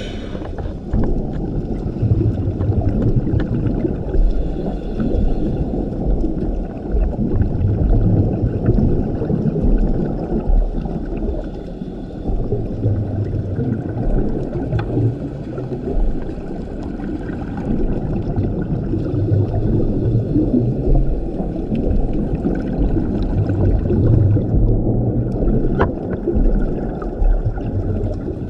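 Scuba diver's regulator breathing heard underwater: the muffled rumble of exhaled bubbles swells every few seconds over the low wash of the sea, with a few faint clicks.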